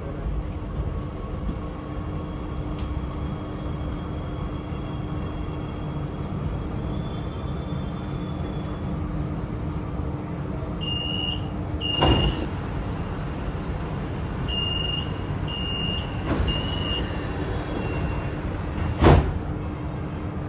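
Interior of a Chengdu Metro Line 7 A-type train running between stations: a steady low rumble with a steady hum. A few short high beeps sound around the middle, and two sharp knocks come about twelve seconds in and near the end, the second the loudest.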